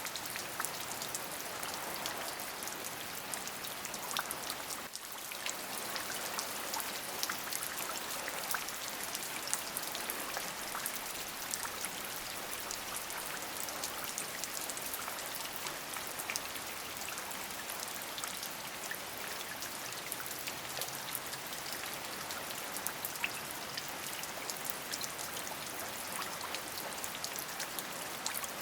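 Steady rain, an even hiss with many individual drops striking sharply throughout. The level dips briefly about five seconds in.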